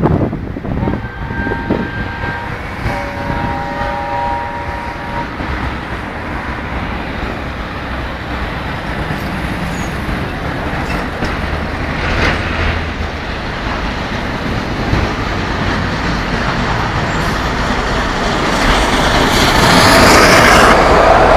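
Peppercorn A1 steam locomotive 60163 Tornado and its train passing, a continuous rumble of wheels on rail that grows louder toward the end. A few steady pitched tones sound together for a few seconds near the start.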